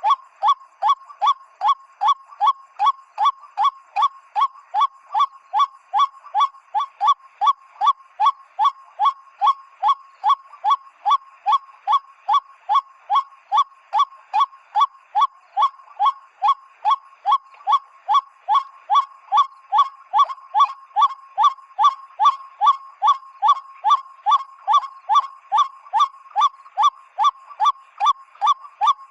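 PVC pipe bird whistle blown as a lure, imitating the white-breasted waterhen's 'ruak' call: short honking notes repeated evenly, about two and a half a second.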